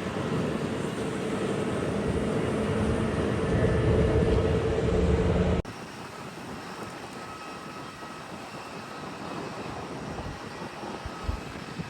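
Airliner engines running loud with a steady whine, growing louder, then cut off abruptly about halfway through, leaving a much quieter background of distant noise and wind.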